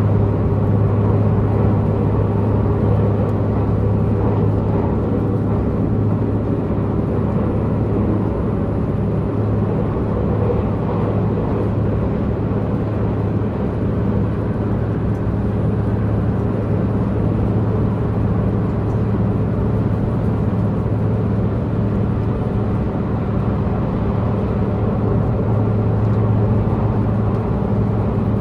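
Diesel multiple-unit express train running at speed, heard from inside the carriage: the underfloor diesel engine gives a steady low drone, over the even rumble of wheels on rails.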